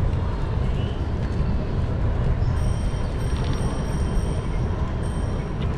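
Wind rumbling on the microphone and city street traffic heard while riding a bicycle, with a faint high steady whine from about halfway through.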